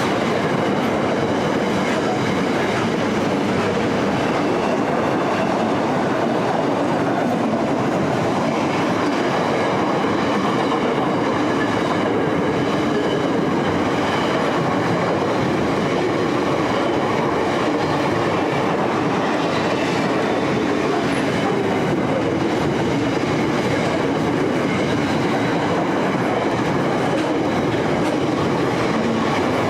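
Long freight train of container and steel wagons rolling past at speed: a steady, loud rumble and clatter of steel wheels on the rails, with faint high tones ringing over it.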